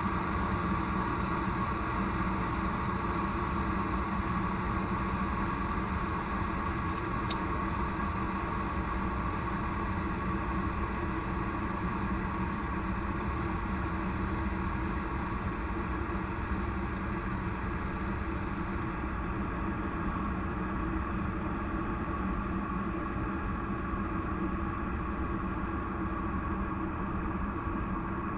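Water heating in the GEVI pour-over coffee machine's built-in kettle, a steady rushing hum as it works up toward 208°F. Faint ticks about seven seconds in.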